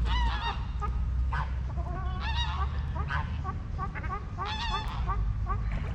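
Geese honking repeatedly, with a run of short calls in quick succession from about three seconds in, over a steady low rumble.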